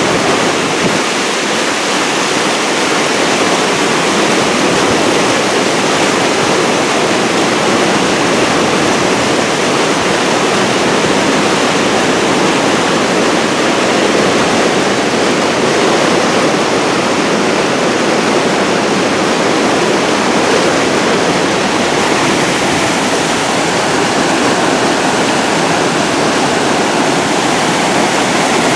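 Floodwater pouring over a mill dam in a loud, steady rush, the river running high in flood.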